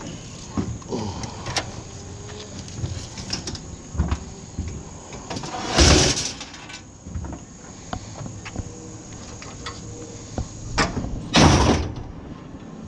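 Scrap being handled and rummaged through: scattered knocks and clatter, with two louder scraping bursts about six and eleven seconds in.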